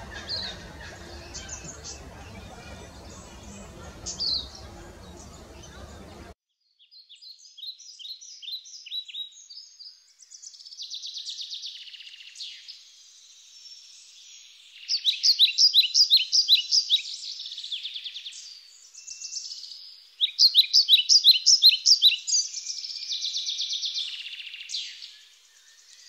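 Eastern spinebill calling: runs of high, rapid, staccato piping notes, the loudest two runs at about four notes a second in the second half. For the first few seconds fainter chirps sit over a low outdoor rumble that cuts off abruptly.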